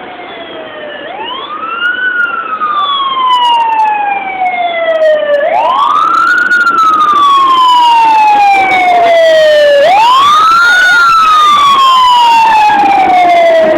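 Emergency vehicle siren in a slow wail: each cycle rises quickly in pitch for about a second, then falls slowly for about three seconds, repeating roughly every four seconds. It grows louder over the first few seconds, then stays loud.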